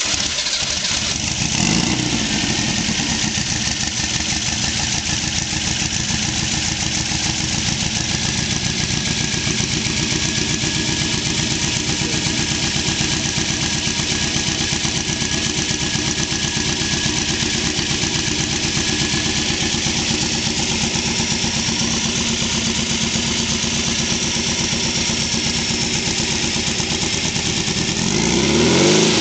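Turbocharged 1955cc air-cooled VW flat-four, fitted with a Schwitzer S2 turbo and dual Dellorto carburettors, idling with an even pulse. A short blip of the throttle comes about two seconds in, and the revs begin to rise right at the end.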